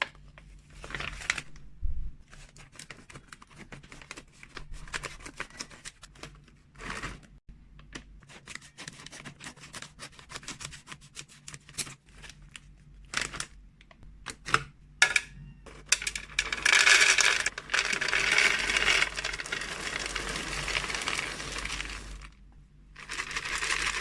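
Packages and containers of freeze-dried cat treats being handled: plastic crinkling with scattered light taps and clicks, then about five seconds of continuous rustling rattle starting two-thirds of the way in, and a shorter burst near the end.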